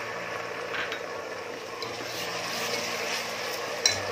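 Fried onions and ginger-garlic paste sizzling steadily in hot mustard oil in a steel pot, with a steel ladle scraping through them. One sharp knock sounds near the end.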